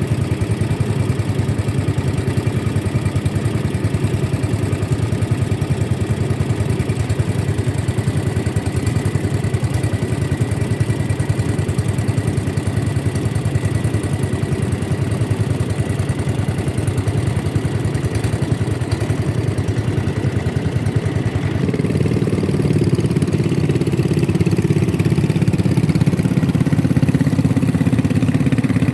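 Boat engine running steadily, with a low rumble that grows louder and fuller about three-quarters of the way through.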